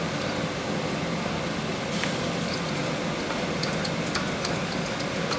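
Steady hum of a fan or air conditioner, with light clicks and taps of small metal parts being handled from about two seconds in.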